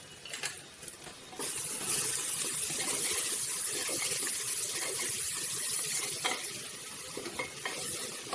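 Onion-tomato masala with freshly added ginger-garlic paste sizzling in hot oil in an aluminium pressure cooker while it is stirred with a wooden spatula. A steady sizzle comes up about a second and a half in, with a few knocks of the spatula against the pot.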